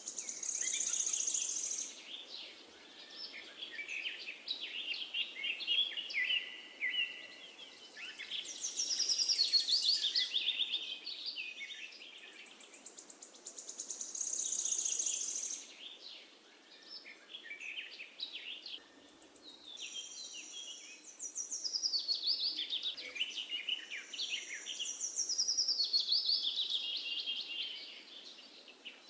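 Birds singing in overlapping high phrases of fast trills and chirps, every few seconds, over a faint steady hiss.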